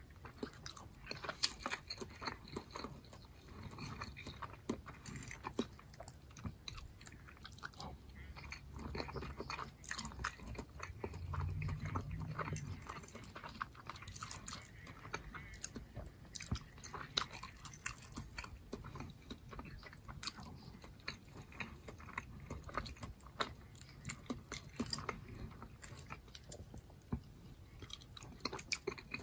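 Close-miked chewing and wet mouth sounds of a man eating soft leftovers (Mexican rice, ground turkey and potatoes), full of quick sharp clicks, with a metal fork scraping and tapping on a ceramic plate now and then.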